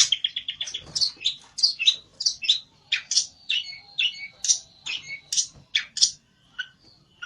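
A pelentet songbird singing hard, in rapid strings of short, sharp high chirps with a quick trill at the start: the agitated song of a bird provoked toward a rival.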